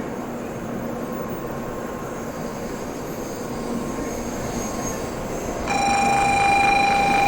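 Shinkansen train noise at a station platform, an even rumble; about six seconds in, a loud steady high-pitched tone starts suddenly and holds.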